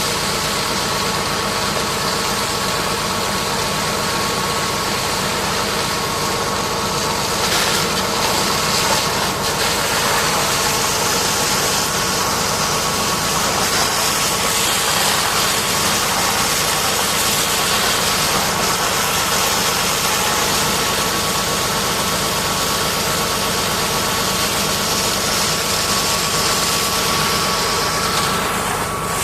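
High-pressure washer running steadily: a motor drone with a constant hiss of water spray, which brightens about seven and a half seconds in.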